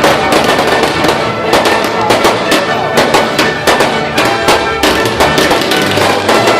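Fireworks going off in quick, irregular succession, sharp bangs and crackles, with music playing alongside.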